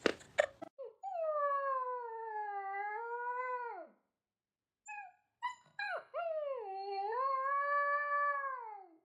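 Dog howling: two long howls of about three seconds each, wavering in pitch and falling away at the end, with a few short yelps between them.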